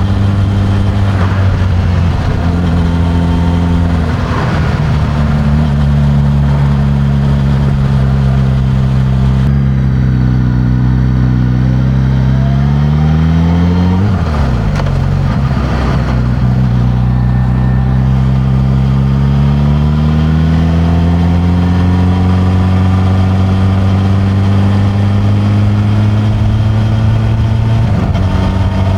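Suzuki GSX-S1000's inline-four engine through its stock exhaust, under way, its note rising and falling with throttle and gear changes. It climbs steadily about a third of the way in, drops sharply at a shift, then settles lower and slowly climbs again toward the end.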